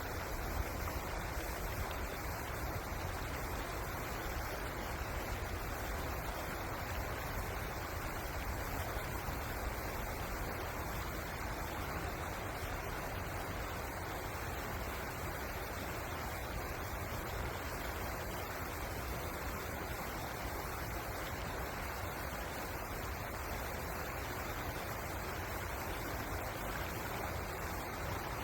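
River water rushing steadily, an even hiss with a low rumble underneath.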